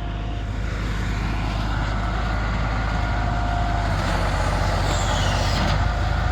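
Truck engine running steadily, slowly growing louder.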